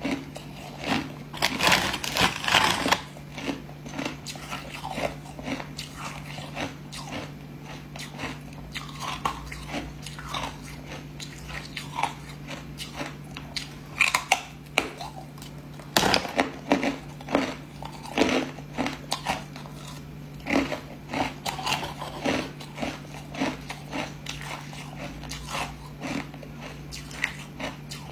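Someone biting and chewing hard ice cubes, with irregular loud crunches and cracks, a dense burst of crunching near the start and one sharp crack about halfway through. A steady low hum runs underneath.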